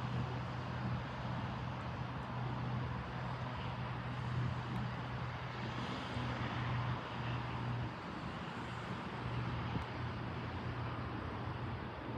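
Steady low engine hum mixed with traffic noise, with no distinct events.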